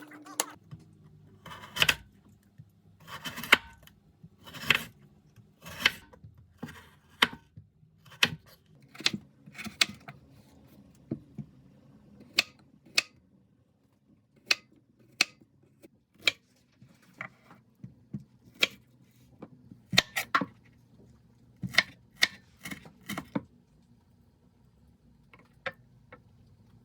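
A series of sharp light clicks and knocks of small hard objects, irregular at roughly one a second, thinning out near the end.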